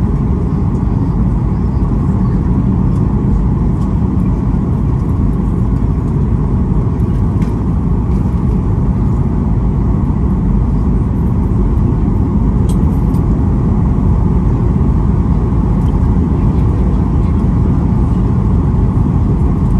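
Steady cabin noise inside a Boeing 737-800: a deep, even rumble of its CFM56 engines and the airflow around the fuselage, with a few faint ticks.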